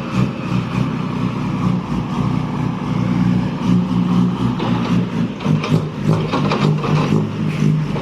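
A large engine running steadily, its pitch shifting slightly up and down a few times.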